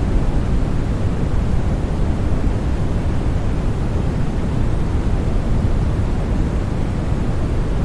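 Steady white-noise sleep sound for babies: an even, unchanging hiss weighted toward the low end, giving a deep rushing tone.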